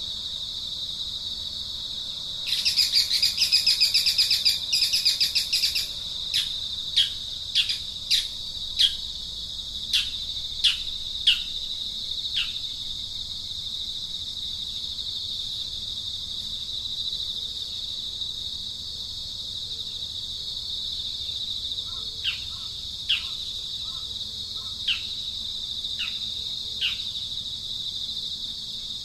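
A steady high insect drone runs underneath. Over it a bird gives a loud scratchy chattering call about two seconds in, then a run of sharp down-slurred whistled notes, and a few more such notes later on.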